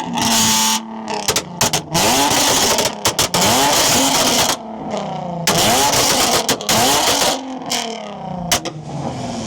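Car engine revved hard over and over, its pitch rising and falling about once a second, the loud blasts broken by sudden short cut-offs and easing near the end.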